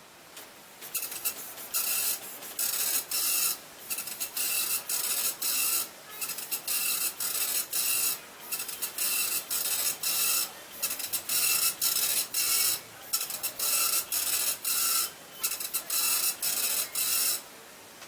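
Epson dot-matrix printer printing, its print head buzzing across the page in short passes, line after line with brief pauses between them. It starts about a second in and stops shortly before the end.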